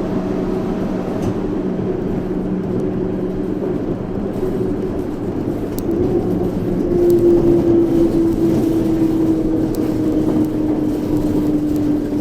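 Yurikamome 7300-series rubber-tyred automated guideway train running, heard from inside the car: steady rolling noise with a motor whine. About six seconds in, the whine gets louder and then slowly falls in pitch.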